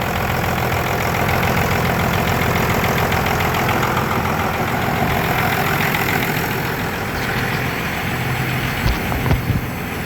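Cummins 5.9 inline-six diesel idling steadily with its even diesel clatter. A few low thumps sound about nine seconds in.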